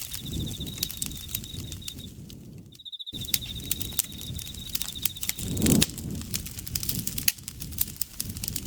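Campfire crackling and popping over a low rumble of burning wood, with an insect trilling steadily at a high pitch. The trill breaks off twice, and the whole sound cuts out for an instant about three seconds in.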